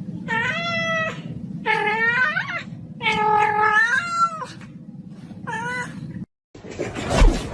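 A cat meowing four times in long, drawn-out calls whose pitch bends up and down, over a low steady hum. Near the end the sound cuts off and a noisy stretch with a thump follows.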